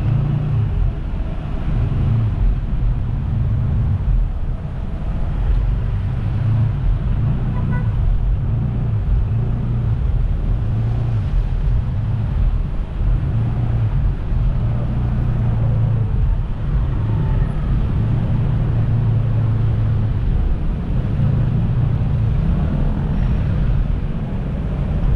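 A motor running steadily, a loud low drone that wavers a little in strength.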